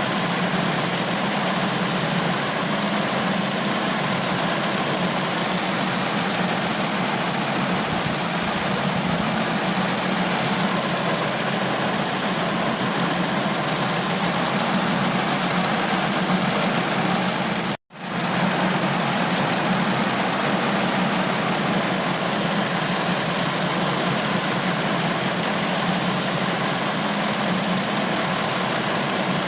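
Steady rain falling on a car roof, a dense even hiss with a low rumble under it. The sound cuts out for a split second about eighteen seconds in, then resumes.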